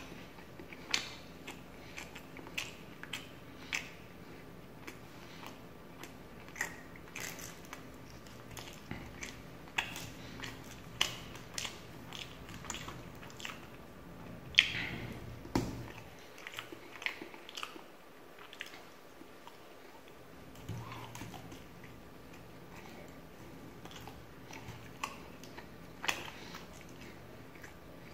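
A person chewing and biting tandoori chicken lollipop eaten by hand, heard as irregular sharp clicks from the mouth and fingers. The loudest click comes about halfway through.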